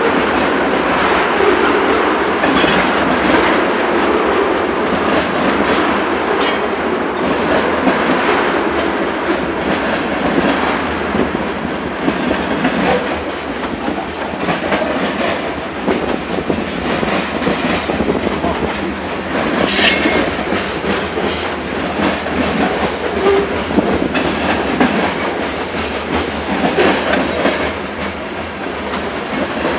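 Freight cars of a Norfolk Southern train, tank cars then covered hoppers, rolling steadily past on steel wheels. Many short clicks and knocks run through the rumble, with a few sharper clanks, the sharpest about twenty seconds in.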